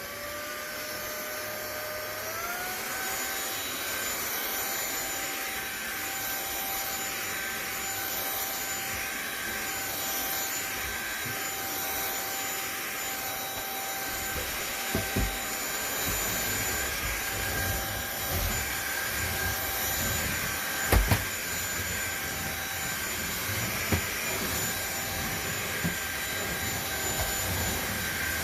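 Fieety 50kPa/600W cordless stick vacuum running, its motor whine rising in pitch and settling to a steady high whine about three seconds in, over the rush of air. A few sharp knocks come around the middle, one near 15 seconds and one near 21 seconds.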